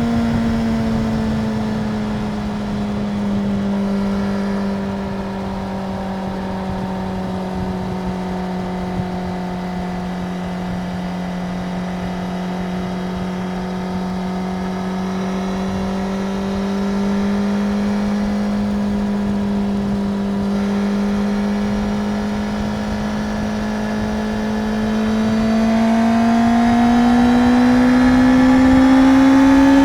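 Suzuki GSX-R750 inline-four engine running at steady revs, its pitch easing down a little at first, then climbing and getting louder over the last few seconds as it is given more throttle.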